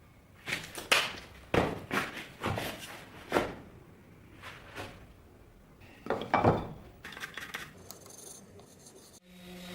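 A series of sharp knocks and taps of metal and wood, each with a short ring: about six in the first few seconds, then another cluster a little past the middle. Music with a steady held tone starts near the end.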